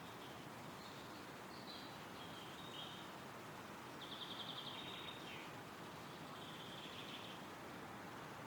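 Wind rustling steadily through forest trees, with scattered short, high birdsong calls; a rapid trill about four seconds in is the loudest of them.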